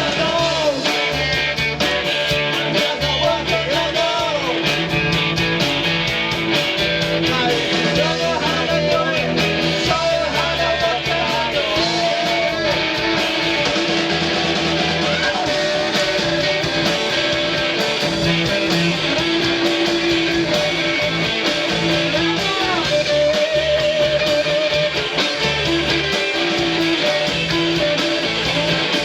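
Rock band playing live: guitar lines with bending, wavering notes over bass and a steady drum beat with cymbals.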